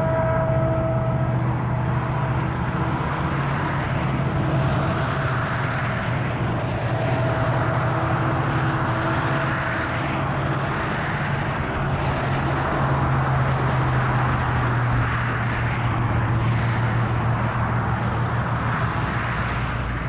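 Loaded freight coal train rolling past: a steady rumble of steel wheels on rail with a low hum, and a faint high whine that fades out in the first few seconds.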